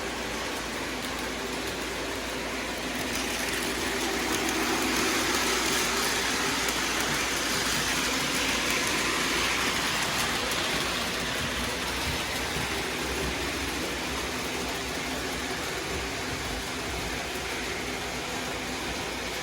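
Freight train rolling past: a steady rush of wheels on rail with a faint hum underneath, swelling louder for several seconds in the middle and then easing back.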